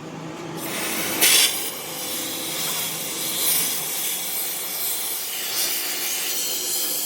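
A harsh, steady rasping hiss of metalworking on a steel truck axle housing, starting about half a second in, with a short louder burst soon after.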